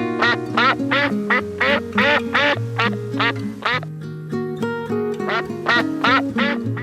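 A fast run of short animal calls, about three or four a second, over background music with steady held notes. The calls stop for about a second around four seconds in, then start again.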